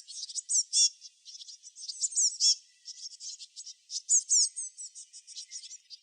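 Small songbirds chirping: a dense run of quick, high-pitched chirps and short falling notes, overlapping one another.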